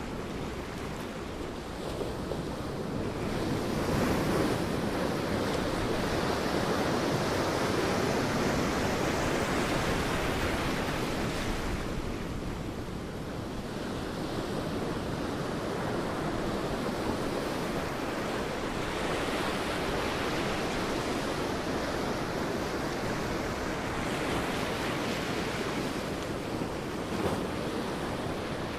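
Sea waves breaking and washing up a beach, a continuous surf rush that swells and eases in slow surges.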